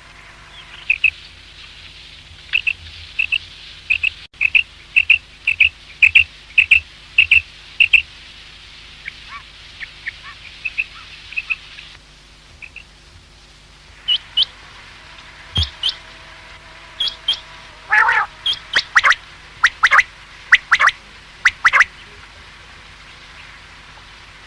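Common quail calling: a run of short, high, repeated notes about two a second, fading for a few seconds, then after a brief break louder, sharper calls in the second half.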